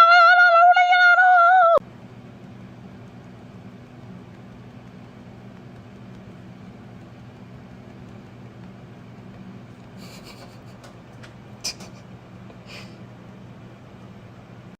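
A cat's long, loud yowl, rising a little in pitch and cutting off abruptly about two seconds in. It is followed by a steady low hum with a few faint clicks near the end.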